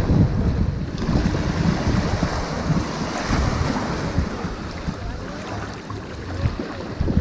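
Ocean surf washing onto a sandy beach, a continuous wash of water that swells and eases as waves break and run up. Wind rumbles on the microphone underneath.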